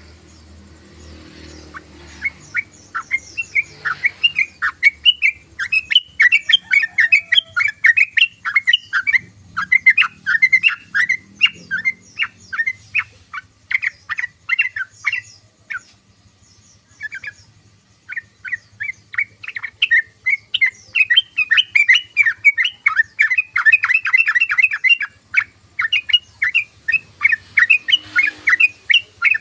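Yellow-vented bulbul (trucukan) chattering: fast runs of short chirps, many a second, with a lull of about two seconds midway before the chatter resumes.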